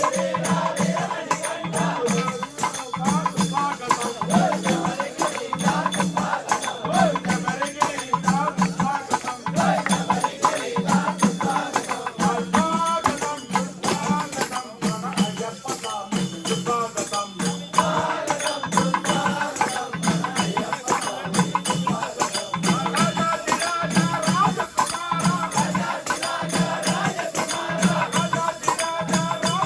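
Devotional music for Ayyappa: a low drum beat repeating a little more than once a second, jingling rattles and a wavering melodic line over it.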